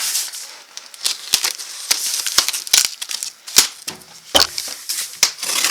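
A cardboard shipping box being handled and opened: irregular sharp clicks and knocks with scraping and rustling of cardboard and packing material.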